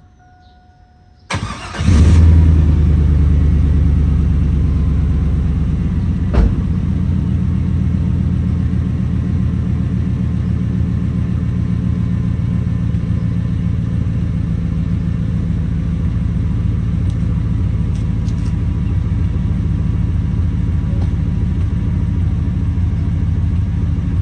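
GM 4.8 LS V8 truck engine starting: a brief crank about a second in, it catches and flares up, then settles into a steady idle through a freshly welded exhaust with an aftermarket SLP muffler, run to check whether the exhaust leak is fixed. A single sharp click about six seconds in.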